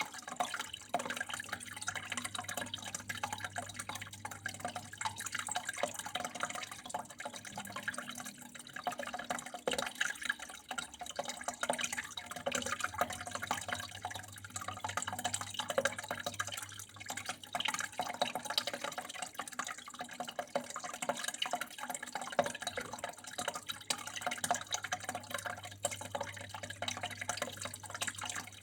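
Water flowing and trickling continuously, with many small drips and splashes in an uneven patter, over a low steady hum.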